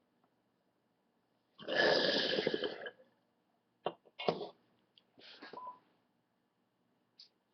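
Water bubbling rapidly through a glass double-halo percolator bong as a hit is drawn, lasting about a second and a half. A few shorter noisy bursts follow.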